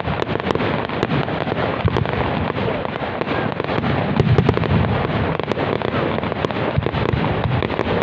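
Fireworks display: a steady rapid crackle of many small cracks and bangs with deeper booms mixed in, continuous throughout.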